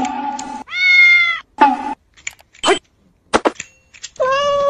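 A cat meowing twice: one long meow that rises and falls about a second in, and another near the end. Between them come a few short clicks and a brief snatch of music.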